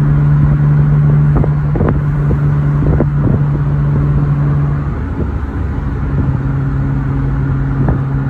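BMW Z3 straight-six engine humming steadily while cruising, over road and wind rumble with a few brief knocks. About five seconds in, the engine note drops away and returns a second later at a slightly lower pitch.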